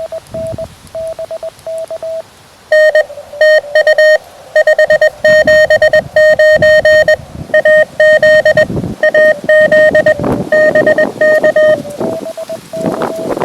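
Morse code (CW) tones heard from a QRP transceiver's receiver: a fainter keyed signal at a steady pitch, and from about 3 s to about 12 s a much louder, harsher Morse signal keyed fast at nearly the same pitch, overlapping it. This is typical of a strong station sitting on top of a weak one on the same frequency.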